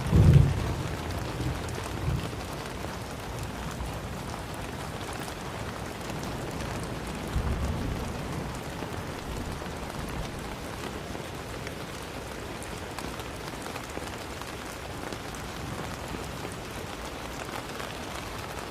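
Steady rain falling, an even hiss of drops. Brief low rumbles rise out of it at the start and again about seven seconds in.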